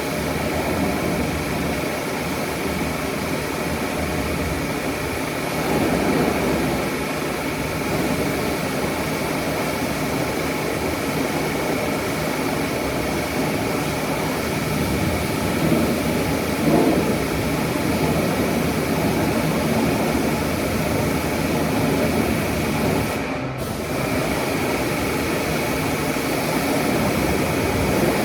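Car-wash equipment running with a steady loud noise and a steady high whine, briefly dropping out for a moment near the end.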